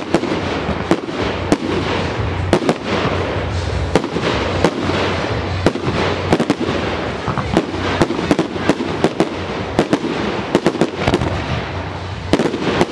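Fireworks display: aerial shells launching and bursting in quick succession, many sharp bangs over continuous crackling.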